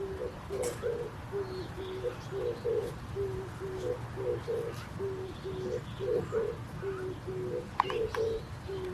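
A dove cooing over and over in low phrases that repeat steadily, roughly one a second, with a brief sharp chirp near the end.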